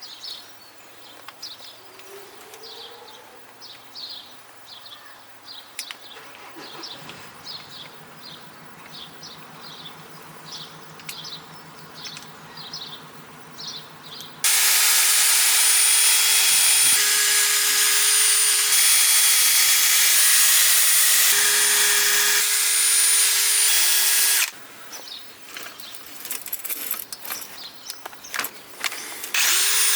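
A power tool starts suddenly, runs steadily with a loud hiss and a steady hum for about ten seconds, cuts off, then starts again near the end. Before it, small birds chirp in a quick repeating pattern.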